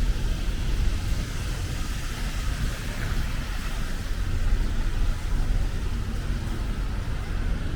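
Rainy city street ambience: a steady low rumble of traffic under an even hiss of rain and wet tyres.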